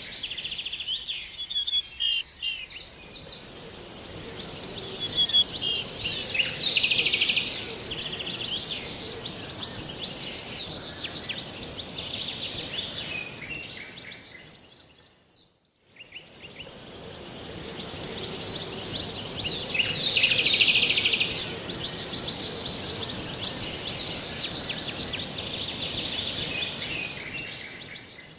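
Birds singing, with many quick chirps and trills over a steady high hiss. The sound fades out about halfway through and fades back in.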